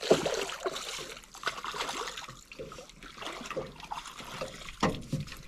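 Water splashing and trickling as a hooked freshwater drum (gaspergou) thrashes at the surface and is brought in to the boat, with a sharper knock about five seconds in.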